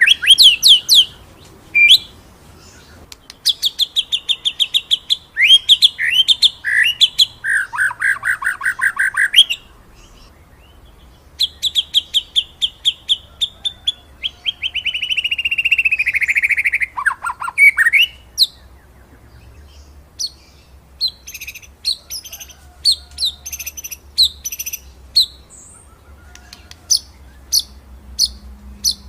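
White-rumped shama (murai batu) singing: loud phrases of rapid high trills, a long rolling run of fast notes that falls in pitch midway, then a series of sharp, spaced chips near the end.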